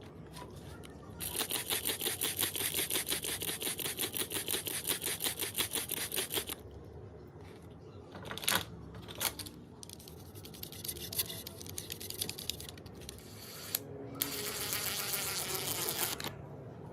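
Cordless drill-driver running in bursts with a fast rattle as a screw is driven, broken by a few separate clicks.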